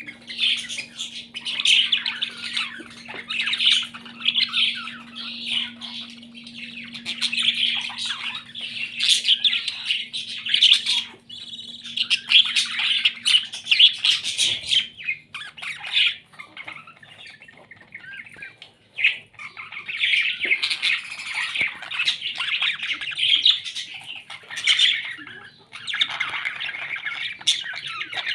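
Parrots squawking and chattering almost without a break, in bursts with short pauses. A faint steady hum sits underneath during the first half.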